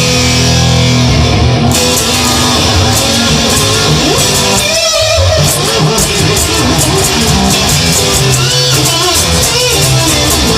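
Instrumental break of a rock song led by electric guitar, strummed and played steadily, with wavering, bending notes about halfway through and again near the end.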